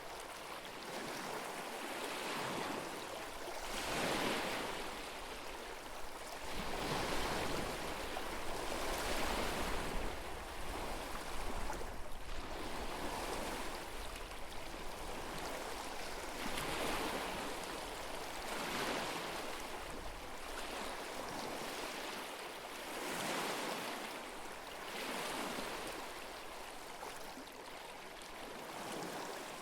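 Small lake waves lapping and washing on the shore, the water noise swelling and fading every few seconds.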